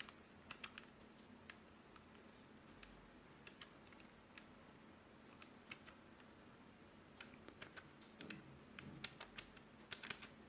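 Keys of a 2.4 GHz wireless office keyboard being typed on, in irregular clicks that come faster near the end.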